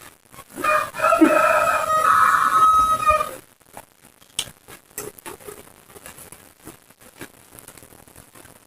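A rooster crowing once, one call of about two and a half seconds, followed by scattered soft clicks of chewing.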